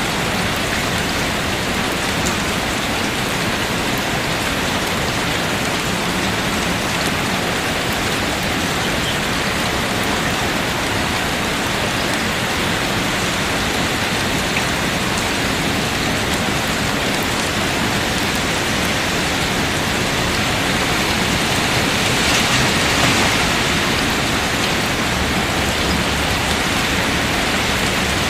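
Steady rain: an even hiss of falling water that swells a little about three-quarters of the way through.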